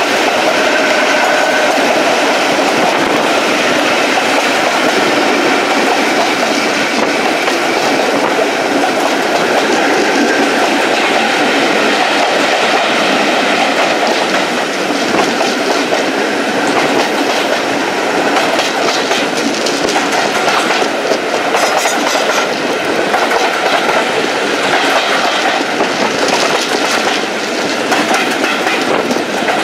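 Diesel-hauled train running along the track: a steady, continuous noise of wheels on rails, with faint clicks from about two-thirds of the way through.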